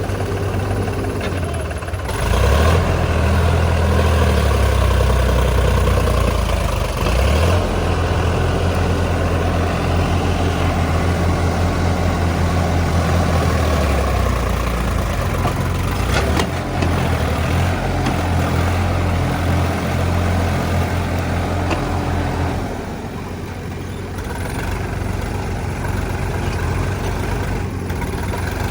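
Diesel engine of a backhoe loader at work, revving up about two seconds in and running hard for a long stretch, then easing back near the end. A single sharp knock sounds midway.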